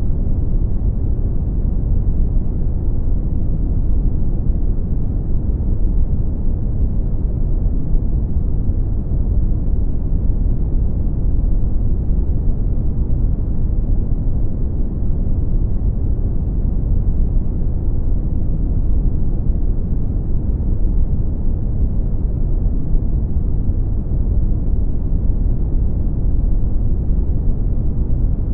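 Brown noise: a steady, deep rushing hiss, strongest in the bass and dark in the treble, with no change.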